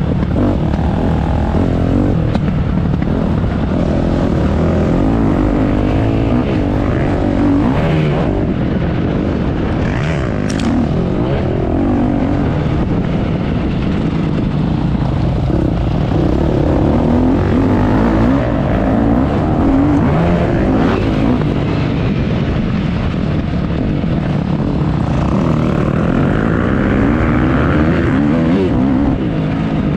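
Motocross bike engine revving up and down, its pitch rising and falling again and again, over a steady low rumble. There is a brief sharp click about ten seconds in.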